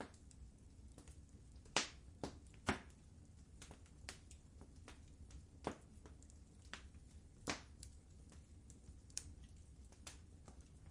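Wood fire burning in a fireplace: irregular sharp crackles and pops over a low steady rumble, with the loudest pops about two seconds in, just under three seconds in and about seven and a half seconds in.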